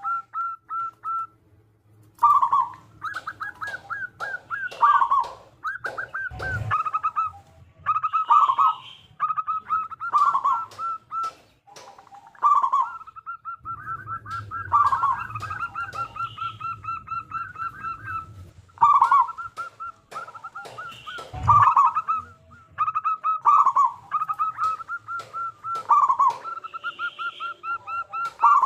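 Zebra dove (local perkutut) cooing: phrases of rapid, clipped notes, each with a stronger, lower coo, repeated over and over.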